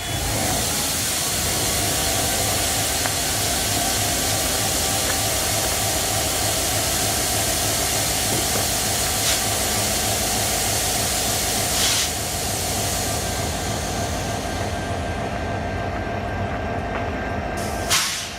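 Canadian Pacific train running steadily: an even rumble and hiss with a faint steady whine over it. The sound breaks off briefly near the end.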